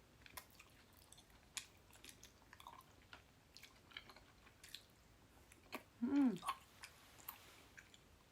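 Close-up chewing of chewy tapioca bunmoja noodles in tteokbokki sauce: small wet clicks and smacks scattered throughout, with a short hummed "mm" about six seconds in.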